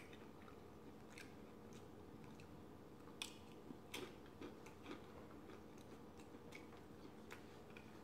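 Faint close-up chewing of crispy fried food, with scattered soft crunches and clicks every second or so.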